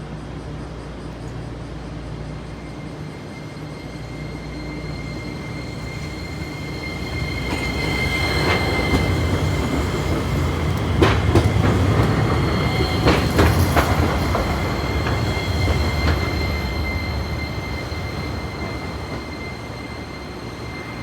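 Hiroshima Electric Railway 5100-series low-floor tram pulling in and passing close by, growing louder, then fading. Wheels clack sharply over rail joints a few times near the middle, over a steady high whine.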